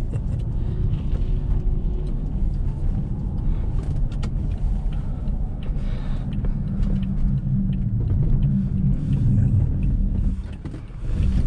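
A car driving over ridged, plowed snow, heard from inside the cabin: a steady low rumble of tyres and engine with scattered knocks and bumps. Near the end the rumble dips briefly, then picks up again.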